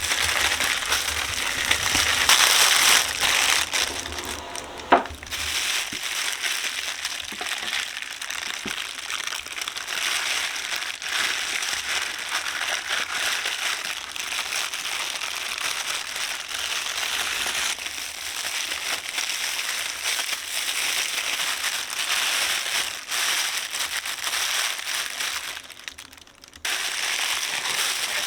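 Close, continuous crinkling and crackling with many small clicks, dropping out briefly near the end.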